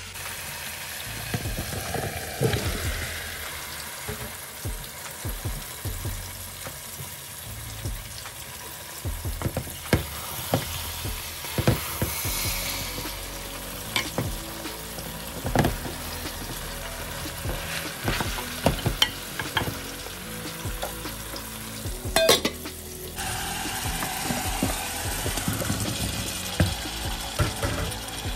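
Beef and pumpkin sizzling as they fry in a metal pot while a wooden spatula stirs them, with frequent sharp knocks and scrapes of the spatula against the pot.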